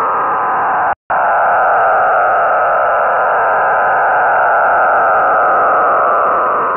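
Shortwave receiver tuned to 4633 kHz: a continuous hiss carrying several slowly falling tones and a steady whistle, the unidentified signal on that frequency. The audio cuts out completely for an instant about a second in.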